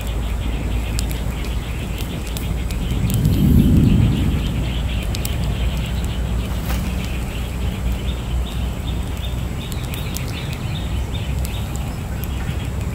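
Birds calling outdoors, with a quick series of short repeated high notes from about eight seconds in, over a steady low rumble that swells briefly about three and a half seconds in.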